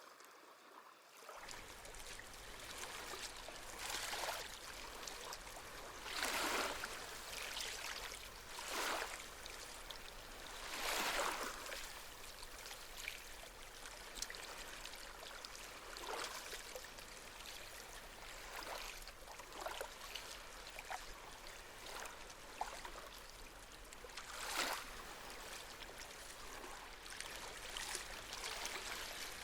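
Gentle sea waves washing and trickling on the shore, with a swell of water every few seconds.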